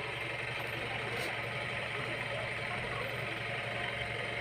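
A steady mechanical hum with a constant low drone and a higher steady whine, unchanging throughout.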